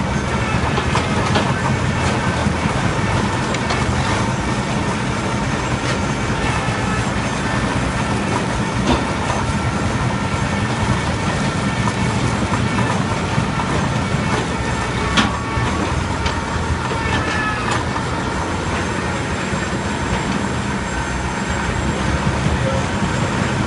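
Mobile log debarking machine running: a steady low drone with high ringing, squealing tones over it, and a few sharp knocks, the loudest about fifteen seconds in.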